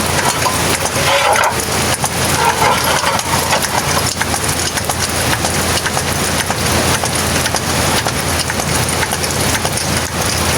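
Steady rain falling on surfaces, with a truck engine idling underneath.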